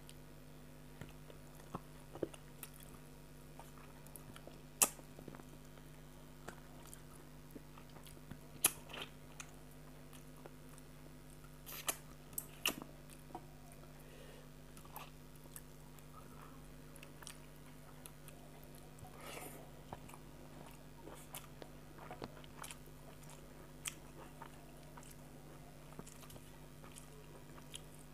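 Close-miked eating by hand: soft chewing and wet mouth sounds, broken by scattered sharp clicks and small crunches as fingers mix rice with fish curry on a metal plate. A faint steady hum lies underneath.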